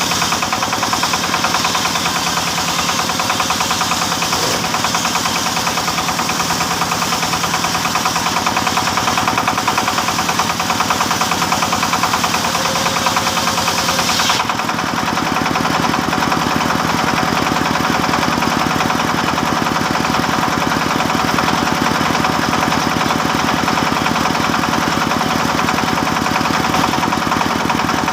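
Engine-driven wood saw running steadily while sawing teak. About halfway through the high hiss stops abruptly, and the steady engine-like running carries on.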